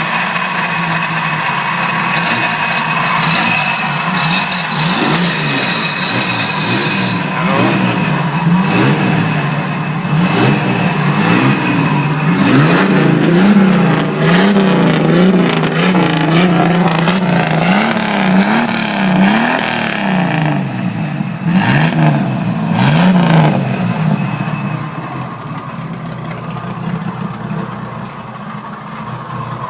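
Jeep Grand Cherokee 4.0-litre straight-six engine, fitted in a 1960 GAZ, running and being revved up and down over and over. A steady high whine sits over it for the first few seconds, and it settles toward a quieter idle near the end.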